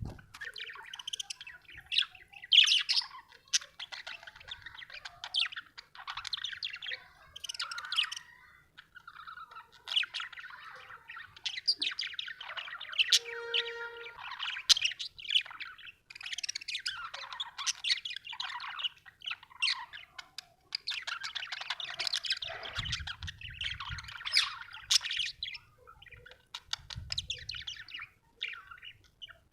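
Budgerigar chattering and warbling in a near-continuous run of quick chirps and squeaks, with a short held note about halfway through and a couple of brief pauses.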